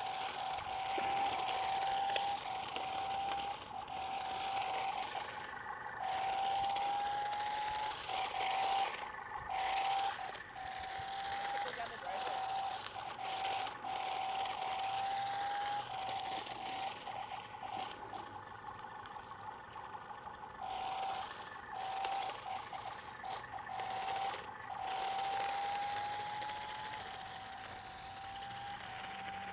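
Small electric drive motors of a remote-control drift car whining as it is driven in short runs, the pitch creeping up during each run, with repeated stops and starts.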